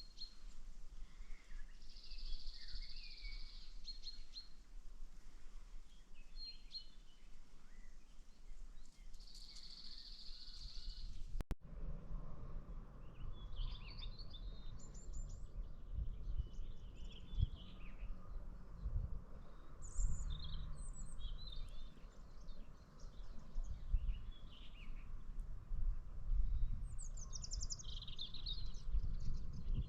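Wild birds singing and chirping, with short buzzy trills early on and many quick chirps after an abrupt change about a third of the way in, where a low rumble sets in under the calls.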